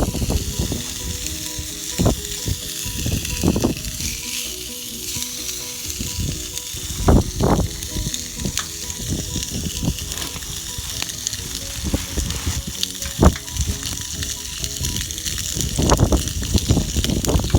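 Steak sizzling in a Dutch oven, a steady hiss with a few sharp knocks scattered through, over background music.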